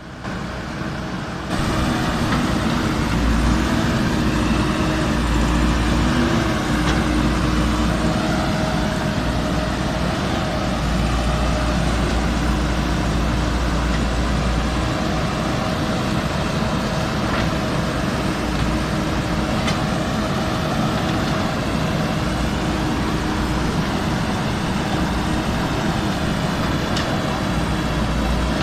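JCB backhoe loader's diesel engine running steadily as the machine digs, its pitch wavering a little. The sound steps up louder about a second and a half in.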